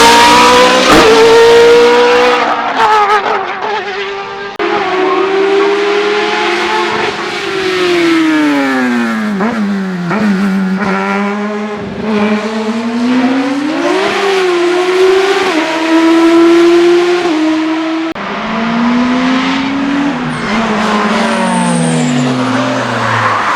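Racing car engine at high revs, its pitch climbing and stepping down again and again with gear changes and lifts off the throttle, with a long swoop down and back up about ten seconds in.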